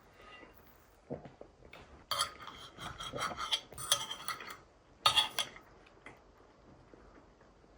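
Utensil scraping and clinking against a dish in a few short runs, loudest about five seconds in.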